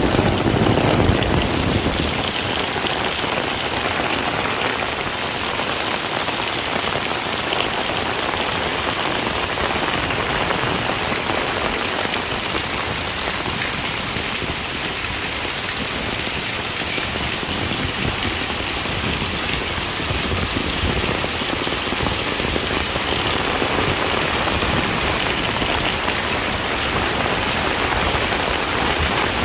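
Heavy rain falling steadily, a dense, even hiss of drops on surfaces. A low rumble underneath dies away in the first couple of seconds.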